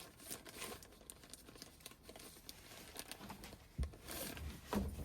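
Rustling and handling noise with scattered small clicks, a sharp knock a little under four seconds in, and a louder burst of rustling and knocking near the end.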